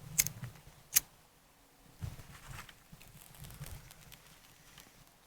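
Two sharp clicks of a small lighter being struck, about a second apart, as birch bark is being lit, followed by soft handling rustles.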